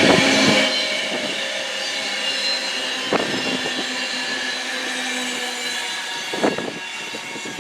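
A passing train running by and fading away, a steady whine of several tones over its rolling noise, with brief knocks about three seconds in and again near the end.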